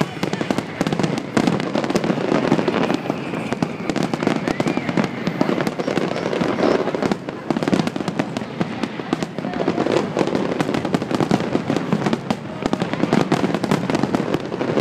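Aerial fireworks shells bursting in a dense, continuous barrage of rapid, overlapping bangs and crackling, with no break.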